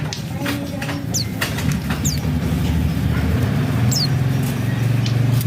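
White-eyes (pleci) in an aviary giving a few short, high, downward-sliding chirps, with small clicks and rustles. Under them runs a steady low motor hum that gets louder near the end.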